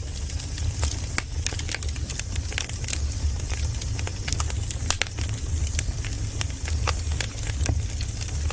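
Firewood burning, with frequent irregular sharp crackles and pops over a steady low rumble.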